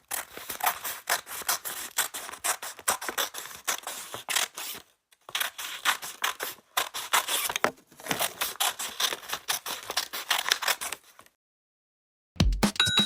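Scissors cutting paper: quick, repeated snips in several runs, broken by short pauses, stopping about eleven seconds in.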